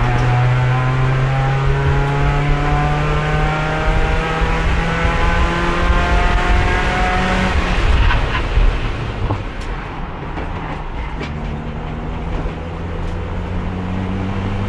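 Race car engine heard from inside the car, held in fourth gear because the transmission has no third gear and won't shift at speed. Its pitch falls slowly for about eight seconds, drops to a lower, quieter running note with a few sharp clicks, then picks up again near the end.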